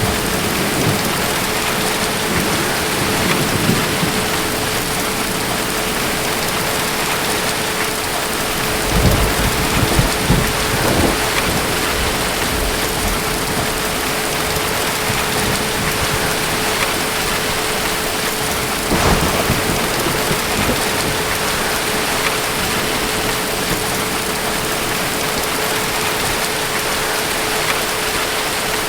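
Thunderstorm: steady rain hissing, with thunder rumbling in low swells, loudest about nine to eleven seconds in and again around nineteen seconds. A faint steady tone hums underneath.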